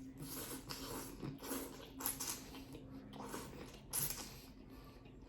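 Person chewing a mouthful of shrimp scampi pasta close to the microphone: soft, wet mouth and chewing sounds about once a second.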